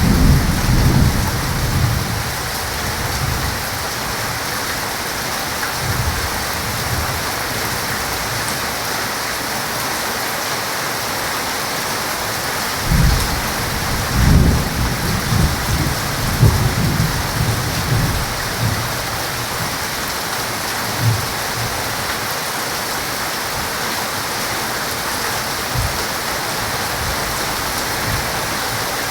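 Heavy rain hissing steadily, with rolling thunder rumbling at the start and again through a stretch about halfway in, and single low thunder thumps later on.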